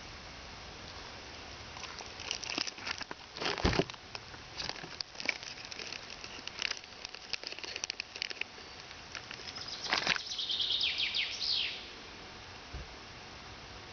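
Hands handling food and utensils: irregular rustling, taps and clicks, with one heavy knock about four seconds in and a burst of dense crinkling near the end.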